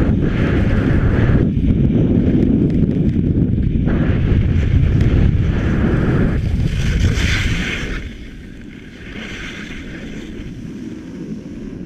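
Wind buffeting the microphone of a skier on a downhill run, a steady low rumbling noise that drops off sharply about eight seconds in.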